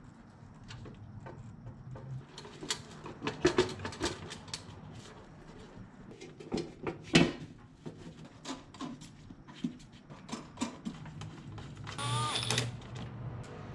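Irregular light clicks and knocks, the loudest about seven seconds in, with a short squeak near the end, over a faint low steady hum.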